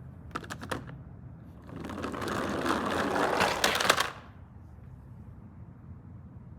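A few quick clicks, then a fast mechanical rattle lasting about two and a half seconds that stops abruptly, from a small plastic mechanism.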